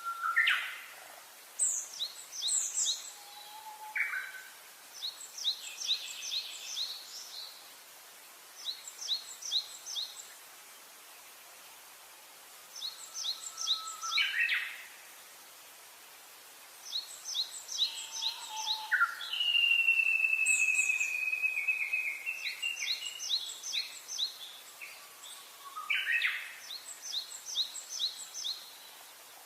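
Several birds singing. One repeats short bursts of quick, high, evenly spaced notes, others give rising whistled calls, and one long whistle falls slowly about twenty seconds in.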